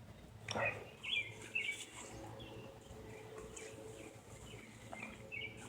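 Birds chirping faintly outdoors: a scatter of short, high chirps over quiet background.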